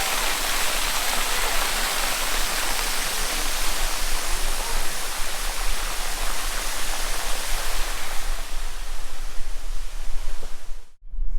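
Steady rushing of flowing water, an even hiss with no breaks. It cuts off abruptly near the end, giving way to a low rumble.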